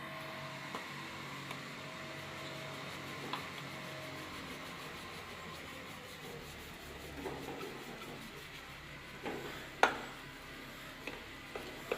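Faint rubbing and scraping with a few light clicks, and one sharp knock about ten seconds in.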